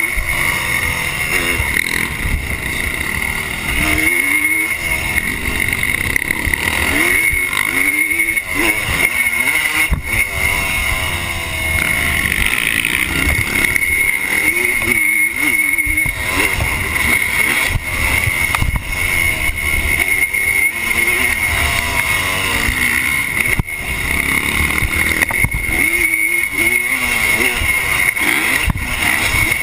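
1986 Honda CR250R's single-cylinder two-stroke engine under race throttle, its pitch rising and falling again and again as the throttle opens and closes.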